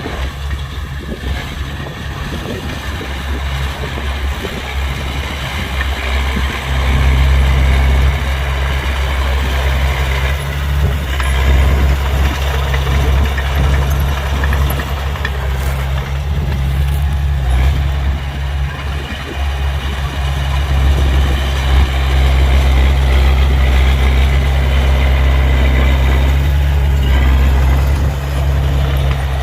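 An engine running steadily with a low, even hum, louder from about seven seconds in.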